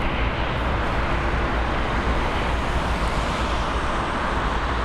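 Steady, even noise of jet aircraft engines running at an airport, with a deep low rumble underneath.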